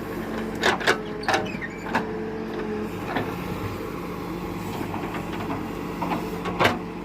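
Tractor diesel engine running steadily, with several sharp knocks: a cluster in the first two seconds and one more near the end.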